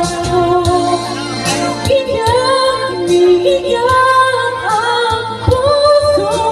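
A woman singing a Tagalog ballad over backing music, holding long notes that slide between pitches.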